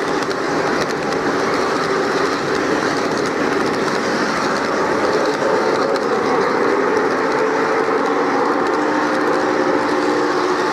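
O-scale model train running steadily with a long string of cars, a continuous clatter of wheels on the rails, with steady humming tones that grow stronger near the end.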